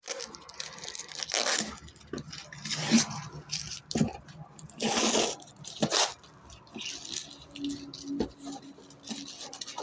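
Packaging being handled and torn open for an unboxing: irregular rustling, crinkling and tearing, with a few sharp clicks.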